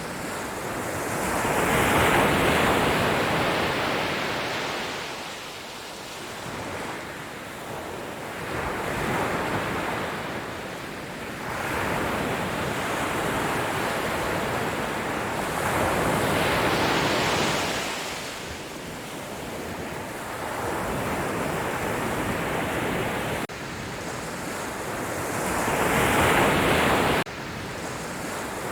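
Sea waves breaking on a shore, swelling and falling back every few seconds, with a sudden drop in level near the end.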